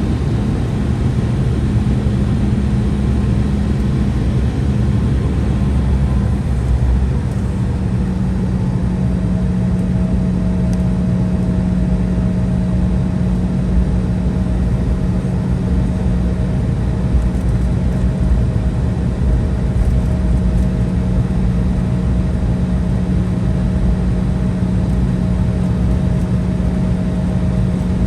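Cabin sound of an Embraer 175 with its GE CF34 turbofan engines running: a steady low rumble with a low hum. About eight seconds in, a second, higher steady tone joins.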